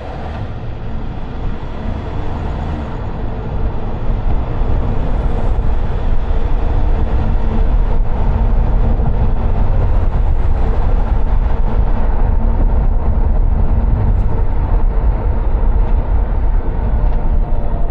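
Vehicle rumble that builds over the first few seconds and then holds steady, deep and loud, with a faint steady hum running through it.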